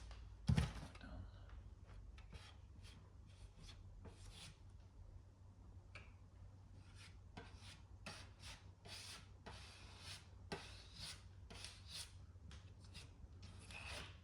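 UV body filler being spread and scraped across an aluminium car panel in a run of short, uneven strokes, with a single thump about half a second in.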